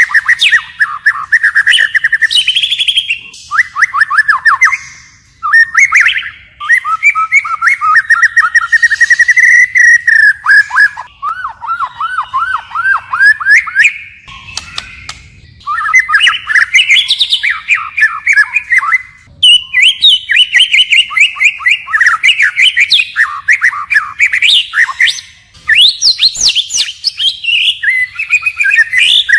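White-rumped shama singing: a long run of rapid trills and whistled phrases that keep changing from one pattern to the next, with a few brief pauses.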